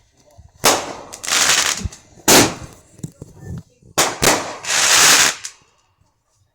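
Fireworks going off: three sharp bangs, each about a second and a half apart, with longer hissing, crackling bursts after the first and last.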